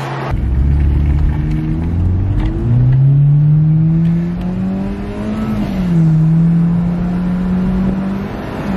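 Hyundai Genesis Coupe 2.0T's turbocharged four-cylinder engine, breathing through a K&N cold air intake, pulling hard under acceleration. Its note climbs steadily, falls about six seconds in as it shifts up, then pulls again.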